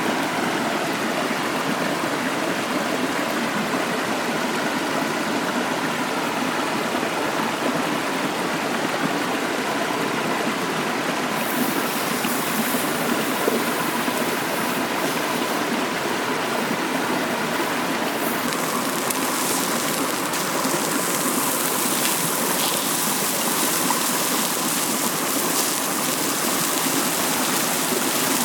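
Mountain stream flowing steadily.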